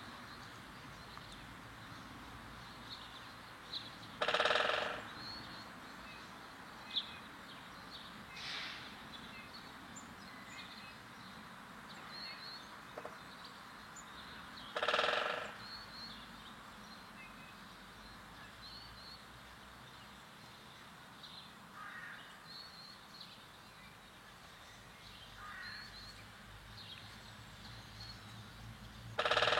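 A bird calling three times, loud and about ten seconds apart, each call under a second long. Faint short high chirps from other birds come between the calls.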